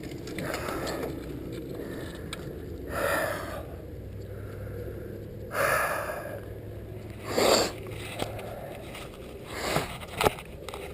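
Mountain bike rolling along a wet trail: a steady rush of tyre and trail noise, with three short louder scraping rushes and a few sharp knocks near the end.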